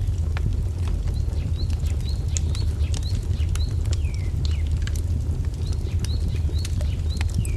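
Wood fire crackling with irregular sharp pops over a steady low rumble, while a small bird repeats a short high chirp about twice a second, pausing briefly midway.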